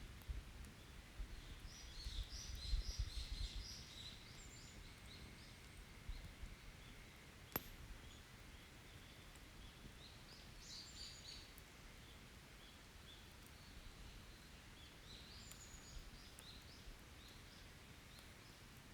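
A forest songbird singing three short bursts of high chirping phrases, over a quiet open wood campfire that gives one sharp pop about seven and a half seconds in. Low rumbling sits under the first few seconds.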